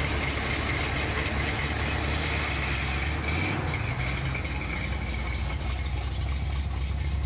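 Supercharged Chevrolet Nova muscle car engine running at low speed, a deep pulsing rumble as the car rolls slowly past, with a steady high whine over it.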